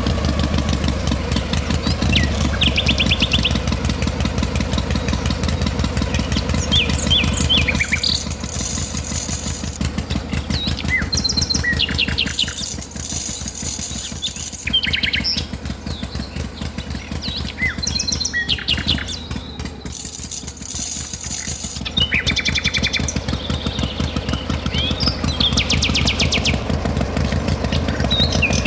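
Small birds chirping repeatedly over a steady low machine hum that is strongest in the first eight seconds. Three bursts of high hiss come and go in the middle.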